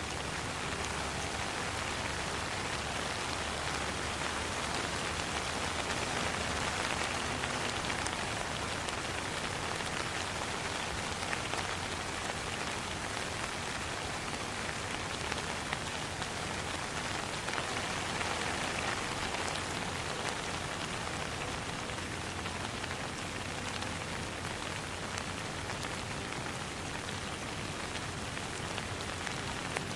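Steady rain falling on a pond, an even hiss of drops with many small patters.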